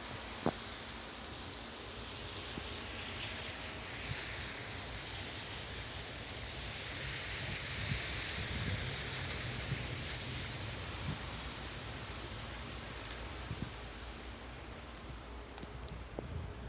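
Rushing, rumbling noise of a freight train in the distance, swelling to a peak about halfway through and then easing off, with wind noise on the microphone.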